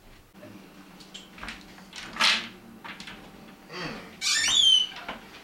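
Rummaging through a kitchen cupboard or fridge: scattered knocks and clicks, a short rustle about two seconds in, and a loud high squeak sliding down in pitch just before the end.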